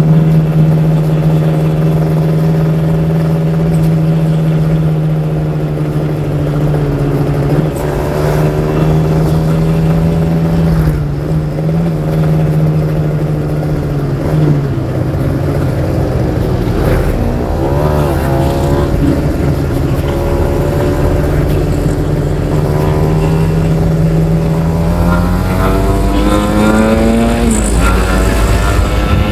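Kawasaki Ninja R 150's two-stroke single-cylinder engine running at a steady speed, its pitch wavering briefly around the middle and rising near the end.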